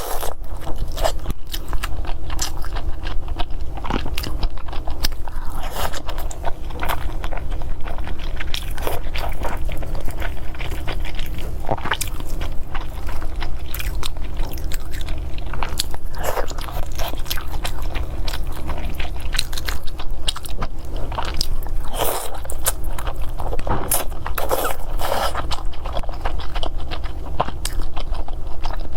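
Close-miked eating: a continuous run of biting and chewing with crunchy clicks and crackles, over a steady low hum.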